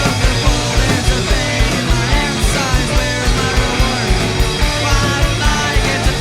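Live punk rock band playing: drums keep a fast, steady beat under distorted electric guitars and bass.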